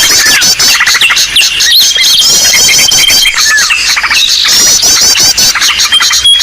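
Bird-lure recording ('pikat ribut'): a loud, dense chorus of many small birds calling over one another, with rapid chirps, squeaky trills and short rising whistles, and a thin high whistle held for a second or two at a time.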